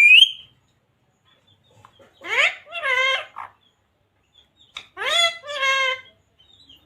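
A pet parrot calling three times, short voice-like calls that each rise in pitch and then level off, the later two in two parts like spoken syllables.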